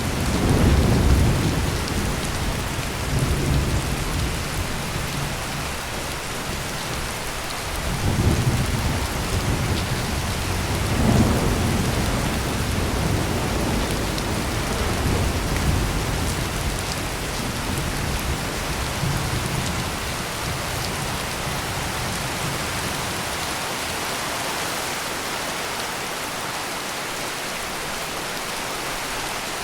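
Heavy rain pouring steadily, with rolling thunder rumbling at the start and again about eight and eleven seconds in, then dying away to rain alone.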